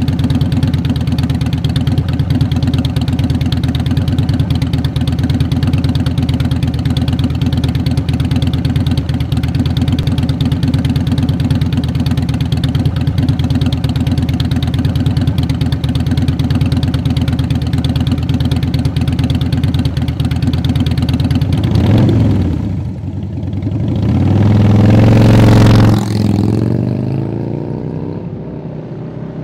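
Harley-Davidson Dyna V-twin running through Vance & Hines Big Shots Staggered exhaust pipes, idling steadily for about twenty seconds. Then it is revved: a short blip, then a long rise in revs that drops back to idle, and another blip starting at the end.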